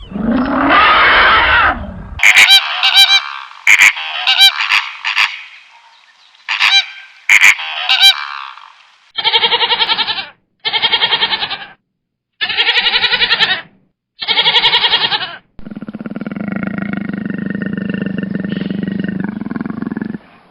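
A run of different animal calls one after another: a call at the start, then sharp clicks mixed with high calls, then four evenly spaced pulsed calls, then a steady drone to the end.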